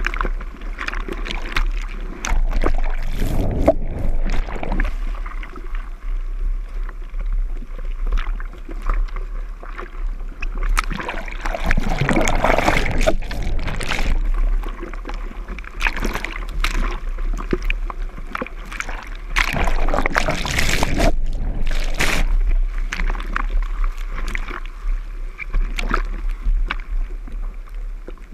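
Water splashing and sloshing around a surfboard as a surfer paddles out through the surf, with louder rushes of water about 3, 12 and 20 seconds in.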